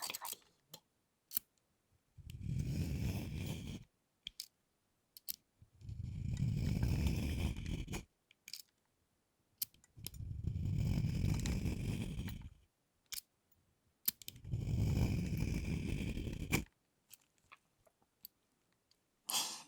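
A vegetable peeler shaving the corner of a thick chocolate bar in four slow strokes of about two seconds each, with a few small ticks between the strokes.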